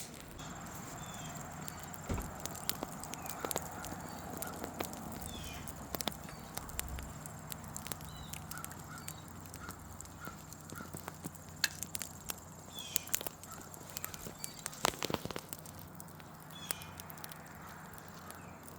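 Wood fire crackling and popping irregularly as freshly added dry wood catches, with small birds chirping now and then.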